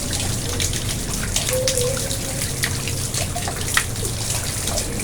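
Water in a garden pond trickling and splashing steadily, with many small drips and splashes over a constant rush.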